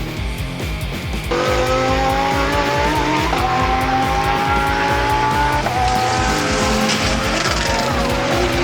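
Background music with a steady beat, and about a second in a car's sound comes in over it: a loud, pitched tone that climbs slowly and changes pitch abruptly twice.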